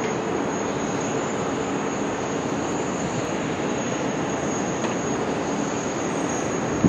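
Jet airliner engines running, a steady rushing noise with a thin high whine over it.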